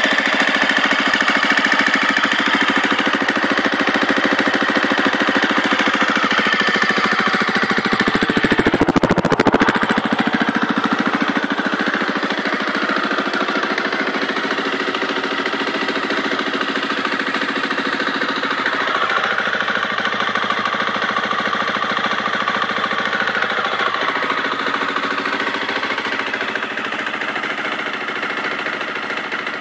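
Single-cylinder four-stroke engine of a new KTM 250 EXC-F enduro bike running steadily on its first startup, with a brief louder burst about nine seconds in.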